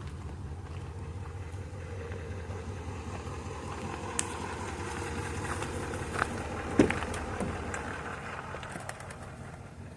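2017 Nissan Titan XD's 5.0-litre Cummins V8 turbo-diesel idling steadily after a cold start. A few light clicks or knocks are heard over it, the loudest about seven seconds in.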